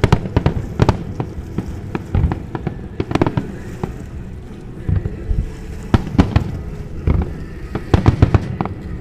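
Aerial firework shells bursting in quick, irregular succession, about twenty sharp bangs over a low rumble.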